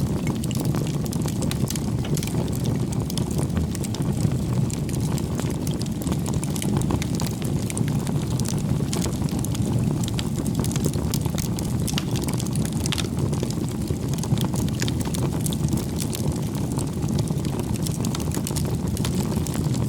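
Wood campfire burning: a steady low rumble of flame with frequent small crackles and pops throughout.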